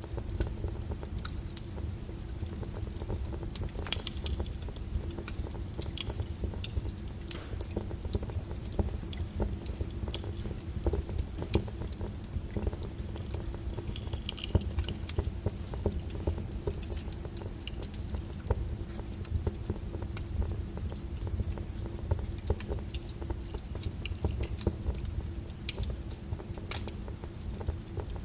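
Fire in a fireplace crackling: irregular sharp pops and snaps, several a second, over a low steady rumble, with one louder pop about four seconds in.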